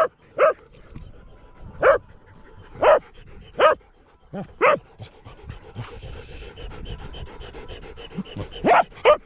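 A dog barking repeatedly in short, sharp, high-pitched barks, roughly one a second, then pausing for a few seconds before barking twice more near the end.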